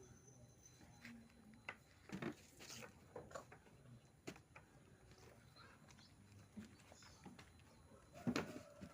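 Faint scattered taps and scuffling from a pet baby otter playing and moving about, with a louder knock near the end.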